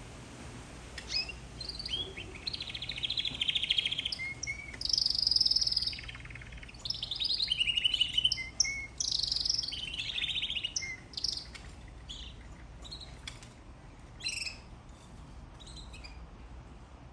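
Domestic canary singing: fast trilled phrases and rolls, densest in the first ten seconds or so, then thinning into sparser short chirps near the end.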